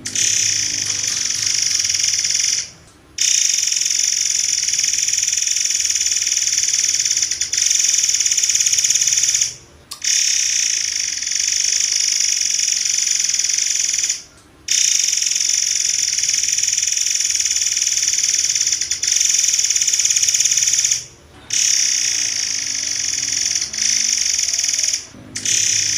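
Murai air bird song in rapid, tightly packed high-pitched notes ('tembakan rapat'), running in long bursts of several seconds with five short pauses. This is a masteran recording meant for caged songbirds to learn from.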